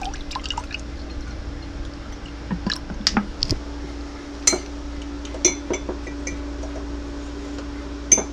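Scattered light clicks and clinks as a meat injector and a lemon juice container are handled while the injector is loaded with lemon juice. A steady low hum runs underneath.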